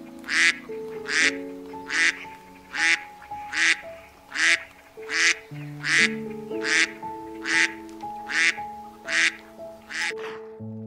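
A duck quacking in a long, evenly spaced series, a little more than one quack a second, over soft piano music.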